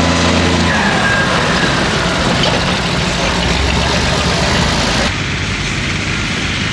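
Pulling tractor's engine running loudly, its steady note dropping in pitch and turning rougher about a second in. About five seconds in, the sound changes abruptly to a slightly quieter engine noise.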